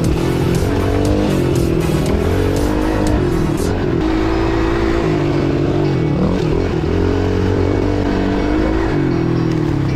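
Pit bike engine revving up and down as it is ridden, its pitch rising and falling every second or two between short steady stretches. A run of sharp ticks and clicks sounds over it in the first few seconds.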